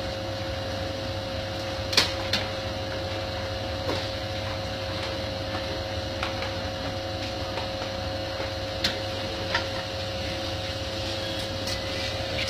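A steady mechanical hum with a few sharp cracks now and then, the strongest about two seconds in, like wood crackling in a roasting fire.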